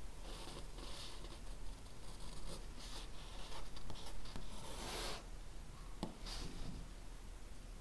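Handwriting on paper: a run of short scratchy strokes that stop about six and a half seconds in.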